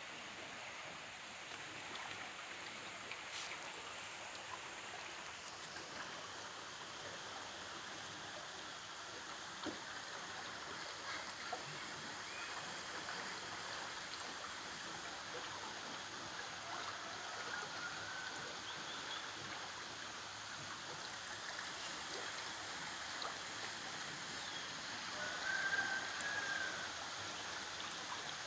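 Steady rushing of flowing water, like a stream running over rocks, with a few short faint chirps, the most noticeable near the end.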